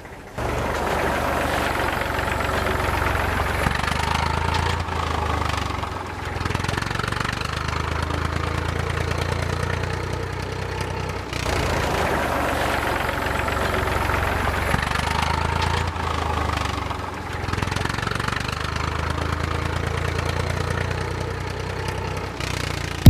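Tractor-style engine running steadily, starting abruptly and shifting in pitch and level several times.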